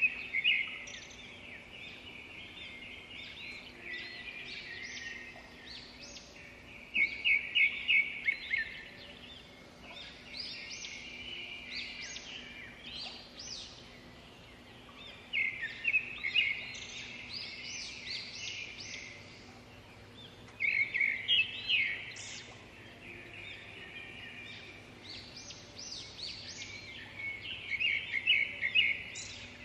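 Songbirds singing and chirping, several calls overlapping, with louder bursts of rapid repeated chirps every several seconds.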